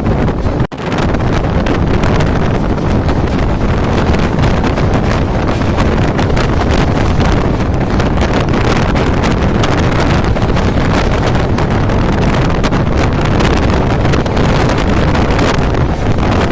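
Running noise of an express passenger train at speed, a steady loud rush full of fine rattles, with wind buffeting the microphone. The sound drops out for an instant a little under a second in.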